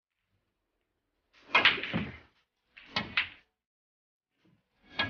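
Three short knocking, rattling noises, about a second and a half apart, the first the longest.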